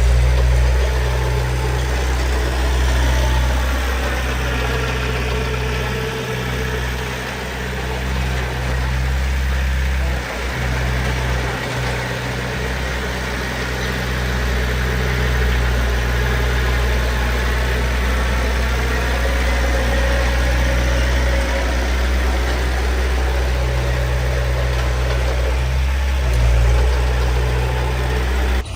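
Heavy diesel earthmoving machinery running steadily, a deep engine rumble whose pitch rises and falls slowly as the engine works.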